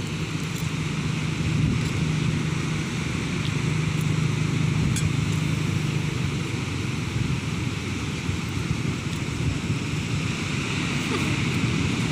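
Steady rush of surf on a beach with wind buffeting the microphone, heavy in the low end.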